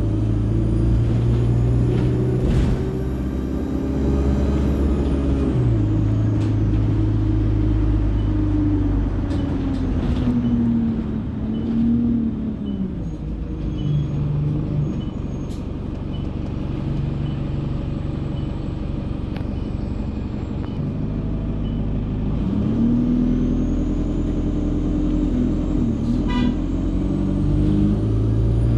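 Enviro 200 bus diesel engine pulling through its Allison automatic gearbox. The pitch rises and drops back at the gear changes, then eases off and runs lower through the middle, with a faint regular ticking. It pulls away again near the end, with a high turbo whine climbing over the engine.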